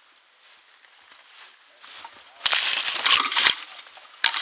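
Two loud bursts of crunching and crackling, each about a second long, from brush and wood debris. The first comes about two and a half seconds in, the second near the end.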